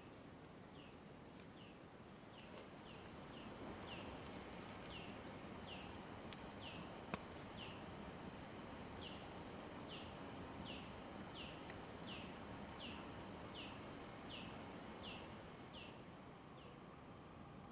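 A bird repeating a short, high, falling call about three times every two seconds, over a steady background hiss. A single sharp click sounds about seven seconds in.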